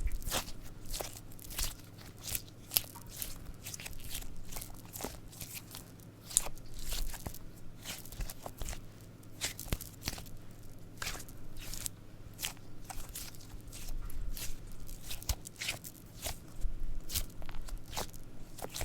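A pink glitter cube squishy toy squeezed and pressed by hands close to the microphone, giving irregular crackling clicks and squishes.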